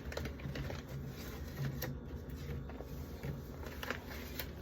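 Food containers and packaging being handled: scattered light clicks, knocks and rustles over a low steady hum.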